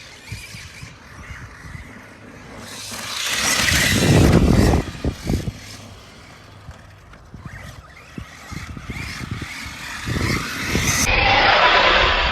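Arma Mojave 6S RC truck running on a 4S battery across a dirt track, its motor and tyres on dirt making two loud rushing swells, one about three seconds in and one near the end.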